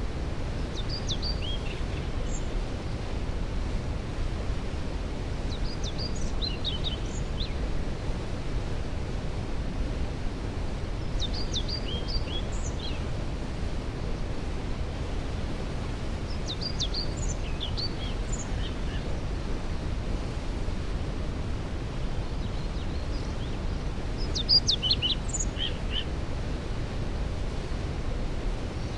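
Waterfall rushing steadily, with a songbird singing a short, quick phrase about every five to six seconds above it.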